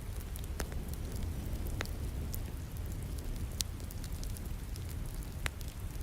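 Wood fire crackling in a fireplace, with a handful of sharp pops, over a steady hiss of falling rain and a low rumble.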